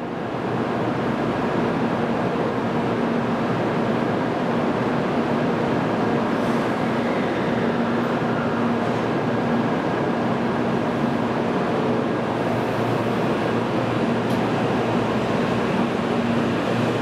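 An N700-series Shinkansen train pulling out of the platform and gathering speed past the listener. Its running noise is a steady rush with a low hum through it.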